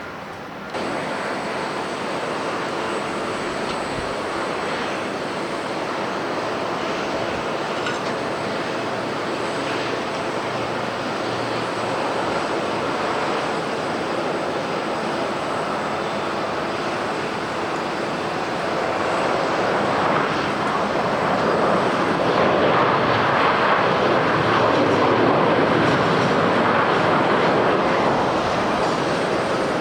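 Jet airliner engine noise, a steady wide rush that jumps up just under a second in, then swells to its loudest about two-thirds through and eases a little near the end.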